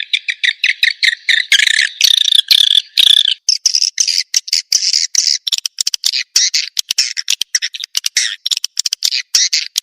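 Swiftlet call recording used as a lure, a dense run of rapid, high twittering chirps. About three and a half seconds in it changes to a higher, choppier stream of short clicks and chatters.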